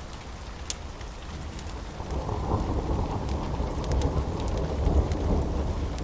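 Thunder rumbling low under steady rain, the rumble swelling about two seconds in, with sharp crackles and pops from a wood fire scattered throughout.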